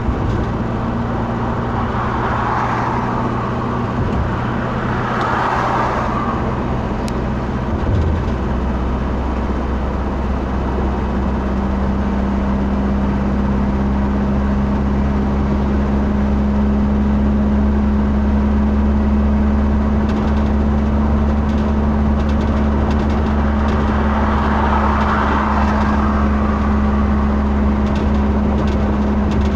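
A car's engine and road noise heard from inside the moving car, a steady drone whose engine note shifts about ten seconds in.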